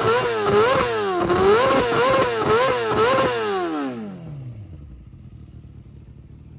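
Yamaha R6 inline-four engine through an Akrapovic exhaust, revved in a series of quick blips that rise and fall. Near the middle the revs drop away in one long falling glide and the sound fades out.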